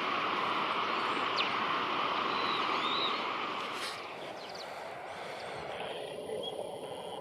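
Steady outdoor background noise with a few faint, brief bird chirps. The noise drops a little about four seconds in.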